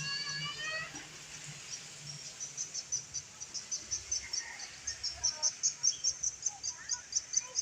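Cricket chirping steadily, short high chirps several a second over a faint hiss. In the first second a high-pitched call trails off.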